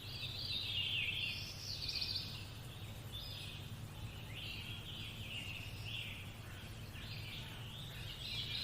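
Birdsong: many small birds chirping continuously, over a faint steady low hum.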